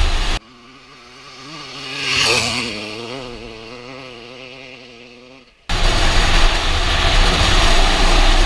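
Honda CR250R two-stroke motocross bike passing close by: its engine note swells to a peak a couple of seconds in, then fades as it rides away, the revs wavering up and down in a buzzing two-stroke tone. Before and after, it cuts suddenly to the loud engine and wind rush heard from on board the bike.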